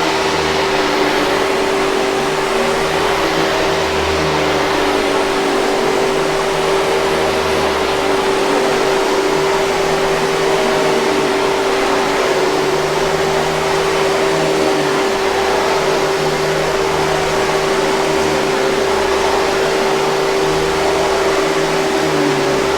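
Hoover 5000 Series canister vacuum cleaner running steadily: a constant motor whine with a strong airflow hiss, and a low hum that rises and falls a little every few seconds.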